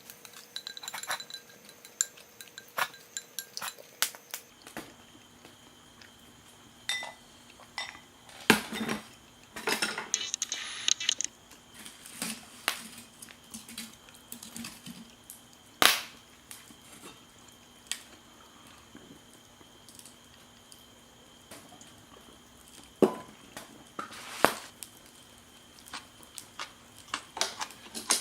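Irregular clinks and knocks of cookware and tableware being handled, spaced a few seconds apart, with a handful of sharper clinks standing out.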